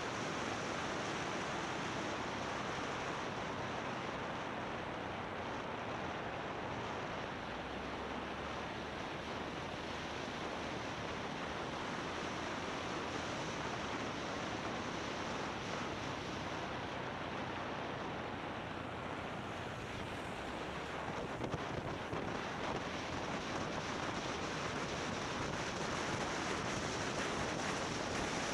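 Steady rush of wind over the camera's microphone on a moving motorbike, mixed with road and engine noise, with a few faint knocks about three quarters of the way through.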